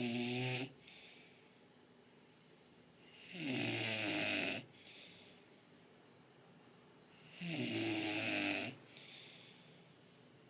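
English bulldog snoring: a snore about every four seconds, each lasting about a second, with quieter breaths between. Two full snores are heard, plus the end of one at the very start.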